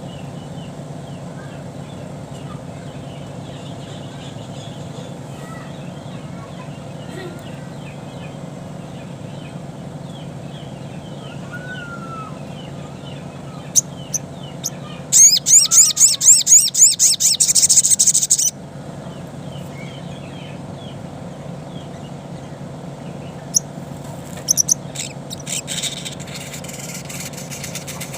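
Sogon (sogok ontong) bird song, a wild forest-style recording used as a lure to set caged sogon birds calling. Soft scattered chirps over a steady low hum give way about halfway through to a loud, fast, very high trill lasting about three seconds. Sharp short calls and another brief high trill come near the end.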